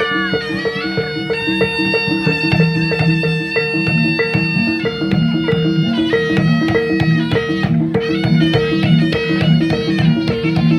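Traditional Javanese folk ensemble music: a wailing reed-pipe melody of long held and sliding notes over a fast, repeating pattern of gong-chimes and drums.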